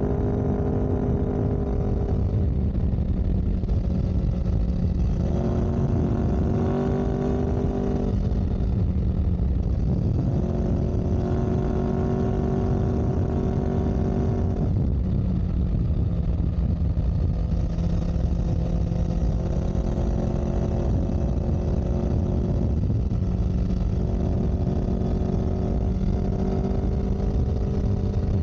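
A motor vehicle's engine running over a heavy low rumble. Its pitch steps up and down every few seconds as the revs change.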